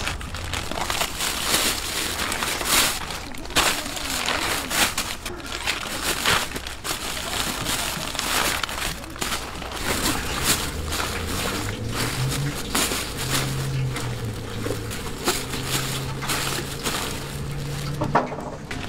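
Irregular crisp crunching and crinkling at close range: crispy Korean fried chicken being bitten and chewed.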